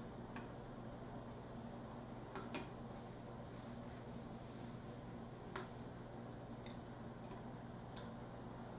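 A few light clicks of a spoon against a bowl while eating pudding, about two and a half and five and a half seconds in, over the steady low hum of a washing machine running.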